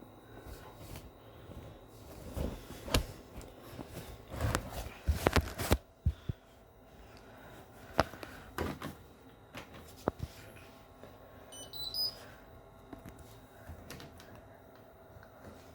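Hotpoint NSWR washing machine running with a faint steady hum and irregular sharp knocks and clicks, including a quick cluster of loud knocks about five seconds in. This is the weird noise its owner cannot explain.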